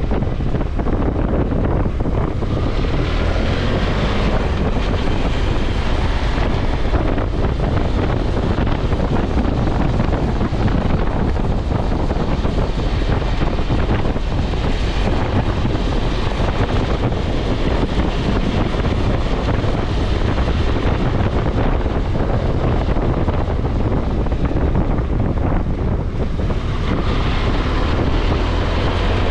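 Steady wind rush on the microphone and engine noise of a BMW F650GS motorcycle being ridden.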